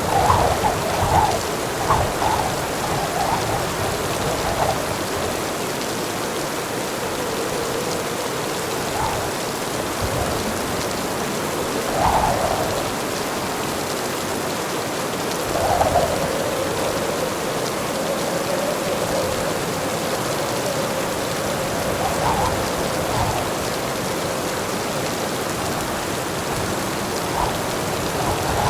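Heavy rain pouring steadily, with a few brief louder swells near the start and several more later on.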